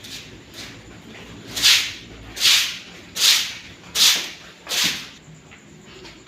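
Five rhythmic scraping strokes, about one every three-quarters of a second, as cow dung is scraped up off the shed floor by hand tool.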